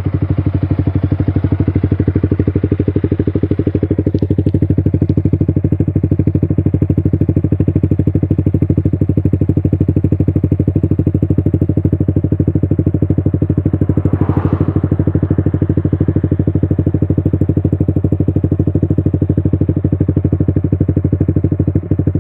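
Yamaha R15 V3's 155 cc single-cylinder engine idling steadily through a Proliner Pro SV full-system aftermarket exhaust, a deep even pulsing. The sound is a little brighter for the first few seconds, then settles.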